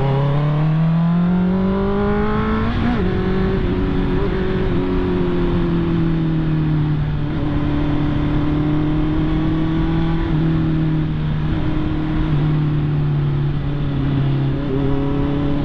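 Honda CB650R's inline-four engine revving up for about three seconds, then a quick drop in revs at a gear change, after which it holds steady revs while cruising, easing off a little near the end.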